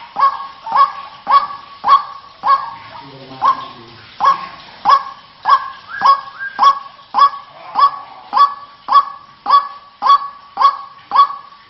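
White-breasted waterhen calling: a harsh note repeated steadily about every 0.6 seconds, with a short break about three seconds in.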